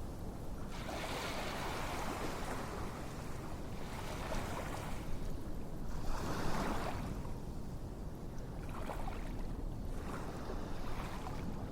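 Ocean waves washing in, a hiss that swells and fades every few seconds.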